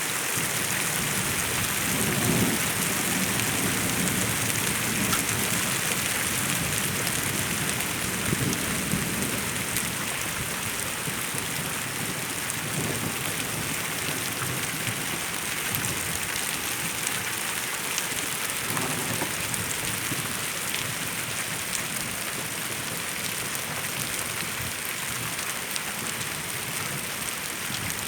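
Steady rain falling and pattering on surfaces, with a few brief low rumbles at intervals.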